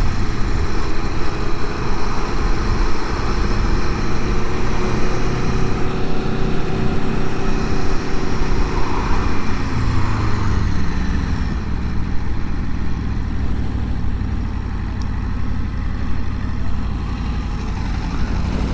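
Aprilia Tuono V4 Factory's engine through its stock exhaust, heard from the bike while riding. Its revs fall away about halfway through, then it runs on at a steady lower speed.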